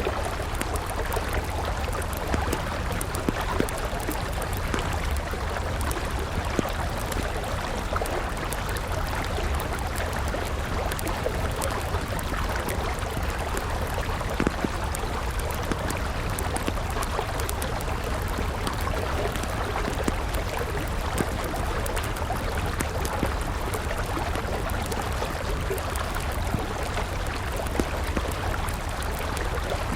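A river running steadily, with a wood campfire crackling over it in scattered small pops.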